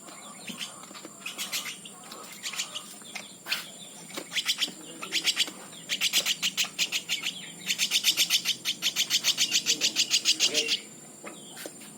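Nestling common flameback woodpecker (pelatuk bawang) begging while being hand-fed: scattered chirps at first, then about halfway through a fast, even run of about six or seven calls a second that grows louder and stops abruptly about a second before the end.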